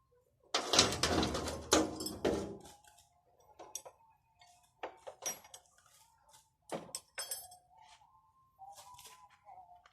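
Hard objects, likely metal pump parts or tools, being handled: a loud burst of clattering and clinking about half a second in, then scattered separate clicks and taps.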